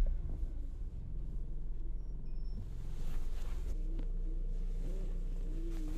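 Low, steady rumble of a Nissan Versa Note hatchback's engine idling, settling into an even hum about four seconds in.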